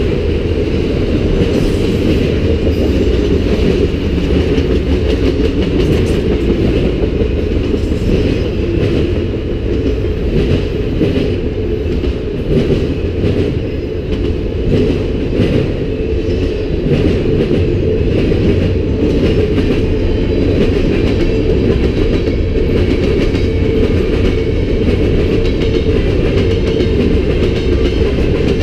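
Freight train cars rolling past on the mainline: a steady low rumble of steel wheels on rail, with a light clickety-clack of wheels over the rail joints.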